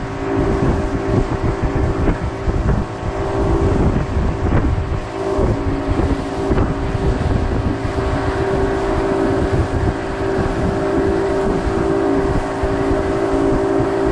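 Yamaha 225 V6 outboard motor running steadily under way, with wind buffeting the microphone.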